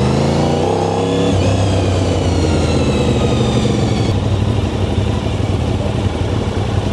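Aprilia RS660 parallel-twin running through an Arrow full exhaust with the dB killer fitted, as the bike is ridden. The revs rise in the first second, the pitch drops suddenly a little over a second in, and the engine then runs on at a lower, steady note.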